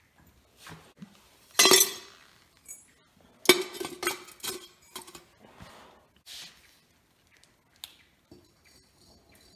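Aluminium scrap pieces from stripped alternators and an A/C compressor clinking and clattering against metal as they are loaded into the furnace's crucible. There is one loud clatter about two seconds in, a quick run of clinks a little after the middle, then lighter taps.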